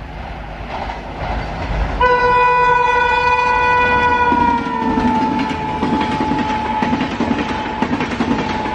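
Express train locomotive sounding a long horn blast about two seconds in, its pitch dropping slightly as it passes, followed by the fast rhythmic clatter of LHB coach wheels over the rail joints.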